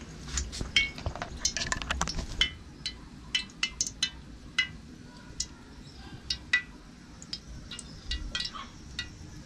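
Irregular clinks and taps of kitchen utensils and dishes knocking together, closely spaced for the first few seconds and then sparser.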